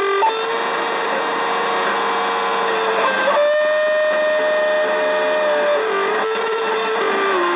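An instrument played through an effects pedal: long held, buzzing notes over a hissy drone, each stepping to a new pitch every two to three seconds.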